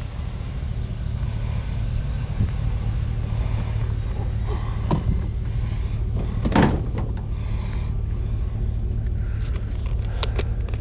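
A vehicle running with a steady low rumble, with a single sharp clunk about six and a half seconds in and a few light clicks near the end.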